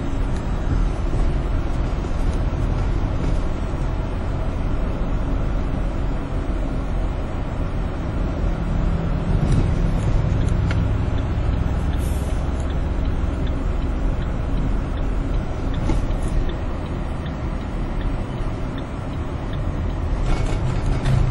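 Steady rumble of highway traffic heavy with big trucks, heard from a moving vehicle: engines and tyre noise. A deeper engine hum grows louder for a few seconds in the middle.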